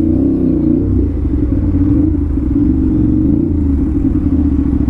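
Aprilia RS 457 parallel-twin engine running through an SC Project aftermarket exhaust at steady riding revs, with a deep, even hum and only slight rises and dips in pitch.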